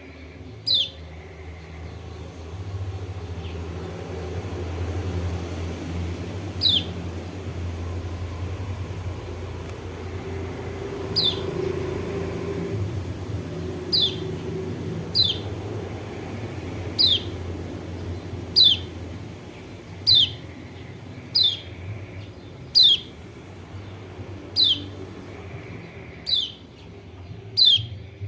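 Kecial kuning (Lombok white-eye) giving short, sharp calls that each sweep downward in pitch, a few at first and then repeated about every second and a half, over a steady low rumble.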